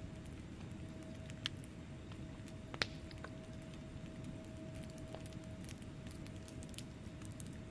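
Wood fire burning in a fireplace: a steady low rumble of flames with scattered small crackles, and two sharper pops about a second and a half and about three seconds in. A faint steady hum runs underneath.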